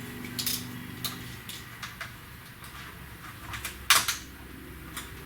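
Light metal clicks and taps from metal parts being handled on a truck's front end, with a sharper knock about four seconds in, over a faint steady hum.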